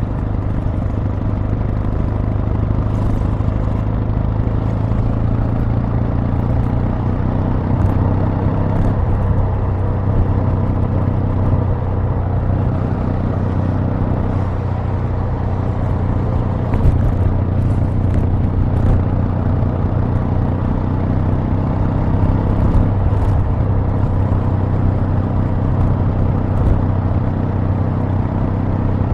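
Exhaust of a Kawasaki W800 (2021), its air-cooled 773 cc parallel-twin engine running steadily with a deep, even beat, with small changes in throttle along the way.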